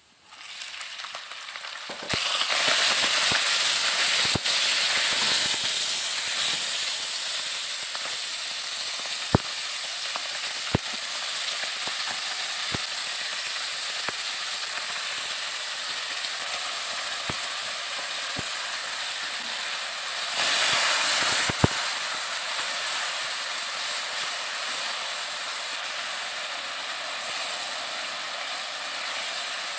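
Sliced beef sizzling in hot oil and minced garlic in a wok, starting loud about two seconds in as the meat hits the pan and settling into a steady sizzle. A wooden spatula clicks against the pan now and then while stirring, and the sizzle briefly surges about twenty seconds in.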